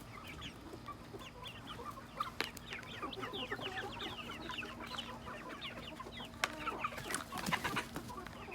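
A flock of chickens clucking and calling at once, a dense overlapping chatter of short high calls, over a steady low hum, with a couple of sharp knocks.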